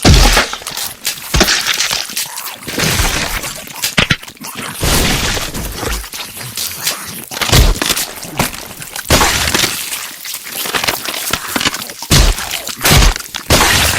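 A home-made creature sound effect: a dense run of crashing and breaking noise, with heavy thuds every second or two.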